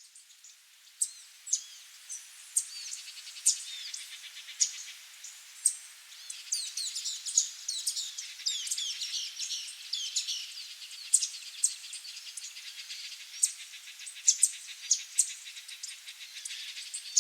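Several songbirds chirping and singing: many short, sharp calls and quick whistled glides, with stretches of fast trilling.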